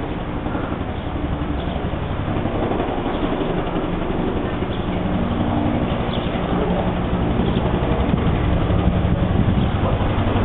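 Firefighting helicopter's rotor and turbine drone, steady and gradually growing louder as it approaches.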